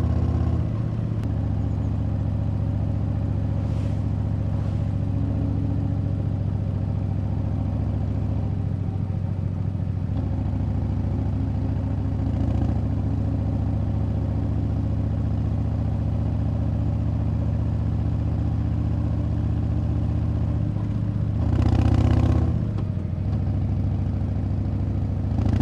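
Harley-Davidson Breakout 117's V-twin engine running steadily, with a brief louder rise in engine sound near the end.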